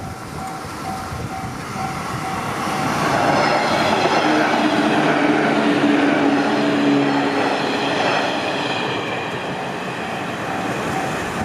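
Limited express Odoriko electric train passing over a level crossing. Its running noise swells to a peak about four to seven seconds in, carrying a whine of several steady tones, then fades. The crossing's warning bell rings in a steady repeating beat throughout and is covered by the train at its loudest.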